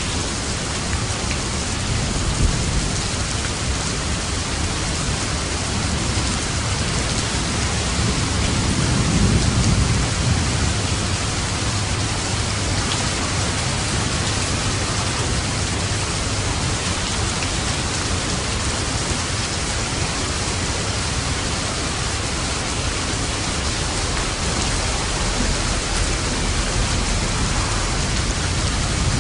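Steady heavy rain hissing, with a low roll of thunder swelling and fading about nine seconds in.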